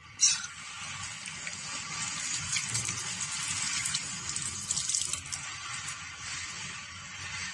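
Water running out under pressure, starting abruptly just after the start and then going on as a steady hiss: water escaping from a leaking water pipe.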